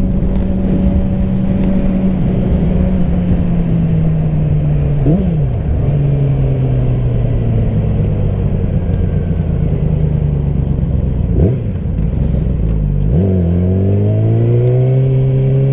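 Yamaha R6's inline-four engine heard from the rider's seat while riding: the engine note eases down in steps as the bike slows, with short sharp blips of revs about 5 and 11 seconds in, then climbs steadily under acceleration near the end.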